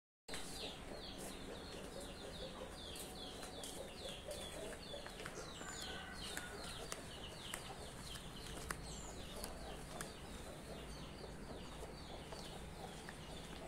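Birds chirping: a quick run of short, high, falling chirps, several a second, thinning out after the first few seconds, over faint low background noise.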